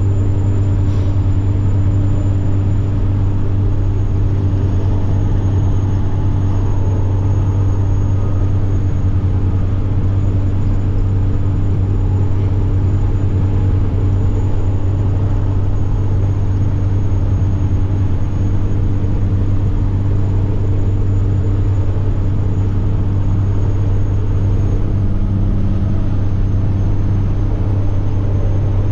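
Semi truck's diesel engine running steadily on the road: a loud low drone with a thin, high turbocharger whine above it, held at an almost constant pitch.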